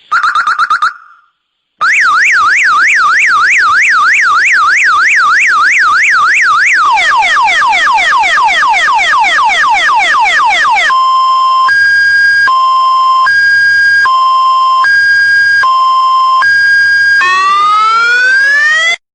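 An electronic siren of the multi-tone car-alarm type, cycling through its patterns after a brief warbling beep. It gives fast up-and-down wails, then repeated falling sweeps, then a steady two-note hi-lo alternation, and ends on a rising sweep that cuts off suddenly.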